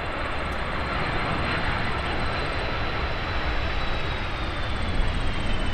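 Airbus A330-323's Pratt & Whitney turbofans running as the airliner comes in to land: a steady jet roar, growing slowly louder, with a high fan whine that begins to slide down in pitch near the end as the aircraft passes.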